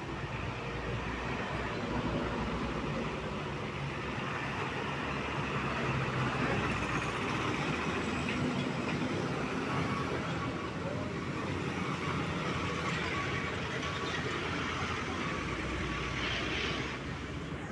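Mitsubishi Fuso trucks' diesel engines running as the trucks drive past, with road and traffic noise. The sound grows louder over the first couple of seconds and stays steady until it eases near the end.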